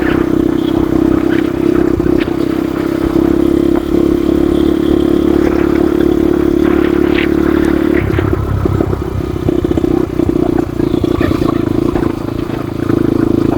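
Motorcycle engine running steadily under way. About eight seconds in its steady note breaks up and eases, then it picks back up near the end.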